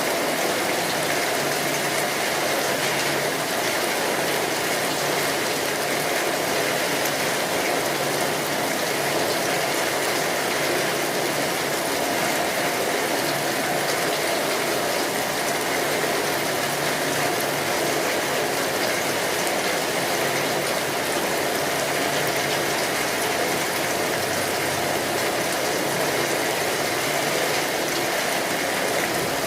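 Steady rain falling, an even continuous hiss that does not change.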